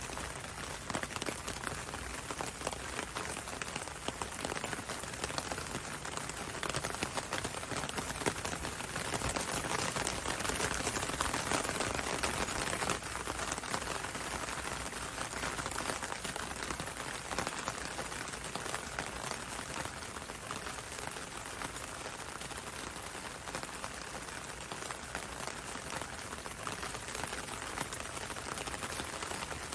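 Gentle rain falling steadily on a window and a road, a dense scatter of small drop ticks over an even hiss. It grows a little heavier around the middle.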